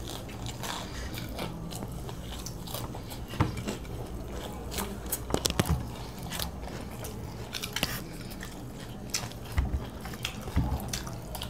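Two people chewing and biting mouthfuls of breaded, deep-fried chicken chop, with scattered wet smacks and crunches over a low steady hum.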